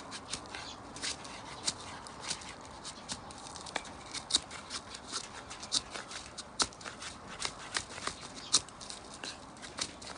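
Wood fire crackling: irregular sharp snaps and pops, several a second, over a faint steady hiss.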